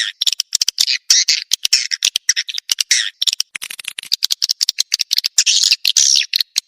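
Edible-nest swiftlet calls, a swiftlet-house lure recording: a dense, unbroken chatter of rapid clicks and buzzy chirps. The recording is meant to call swiftlets in and get them to roost.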